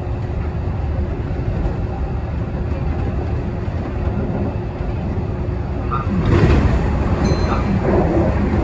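Kintetsu local train running, heard from inside behind the driver's cab: a steady low rumble of wheels on rail. About six seconds in an oncoming train passes on the next track, and the sound swells into a louder rush for a couple of seconds.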